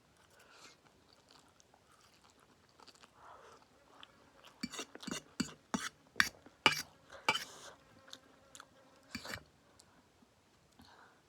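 Close-up mouth sounds of eating instant noodles mixed with nuts: quiet chewing, then a run of sharp crunchy bites and smacks in the middle, and one more a little later.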